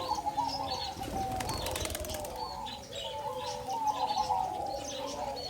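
A flock of birds chirping and calling, with a burst of rapid wing flapping about a second and a half in that lasts about a second.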